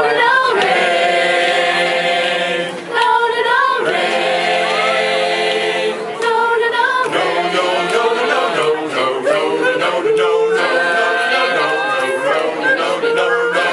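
An a cappella vocal group singing close harmony, several voices holding sustained chords in phrases that break briefly about three and six seconds in.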